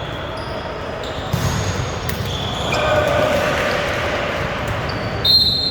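Indoor volleyball game in a gym hall: short, high sneaker squeaks on the court and a sharp hit of the ball, over the steady echoing noise of the hall.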